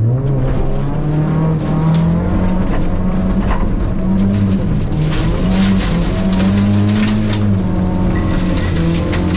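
Corolla rally car engine under hard acceleration during a khanacross run, the revs climbing sharply at the start and then rising and falling several times with gear changes and lifts. Tyre noise and scattered ticks ride over the engine.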